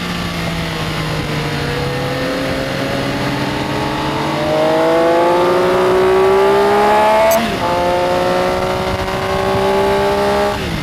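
Benelli Tornado Tre 900's three-cylinder engine pulling hard on track: the note falls, then climbs steadily, is cut by an upshift about seven seconds in, and climbs again before another shift near the end.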